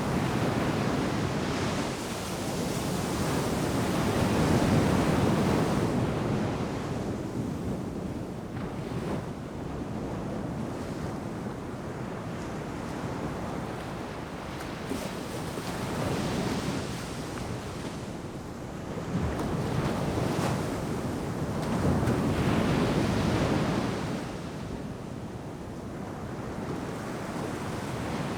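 Ocean surf breaking on a sandy beach: waves swell and wash in, with louder breakers near the start and again about two-thirds of the way through, each easing back. Some wind noise on the microphone.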